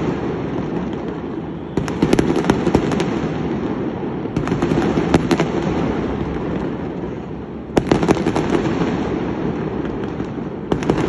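Fireworks going off in a continuous barrage of bangs and crackling, with fresh volleys of sharp cracks about two, four and a half, and eight seconds in.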